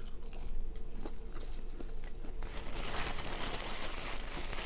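Biting into and chewing a crisp beer-battered onion ring. Scattered crackles come first, then a denser burst of crunching starts about halfway through.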